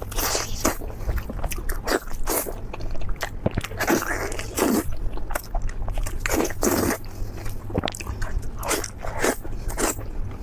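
Close-miked eating of crispy deep-fried lamb leg: crunchy bites and chewing of the fried crust, in irregular bursts a fraction of a second apart.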